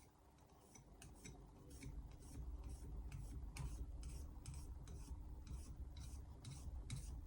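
Altstone RIN whetstone being rubbed back and forth on a flat lapping surface, about two to three faint gritty scraping strokes a second, to check whether the new stone is flat; it is not flat out of the box.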